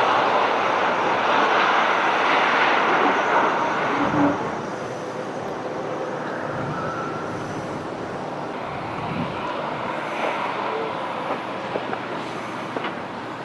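Aircraft noise: a loud, rushing roar for about the first four seconds, which then drops to a quieter steady rumble with a few small clicks.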